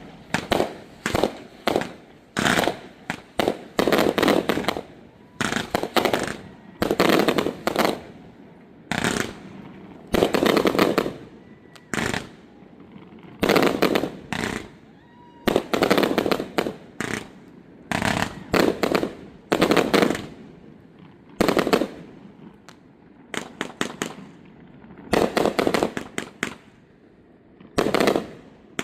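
Fireworks display: clusters of sharp bangs from bursting shells, several at a time, repeating every second or two.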